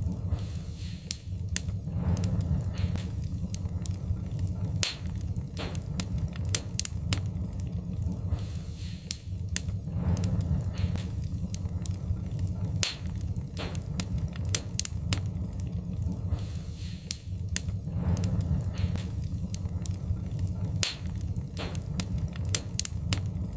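Wood fire crackling, with sharp pops at irregular moments over a steady low rumble of the burning fire.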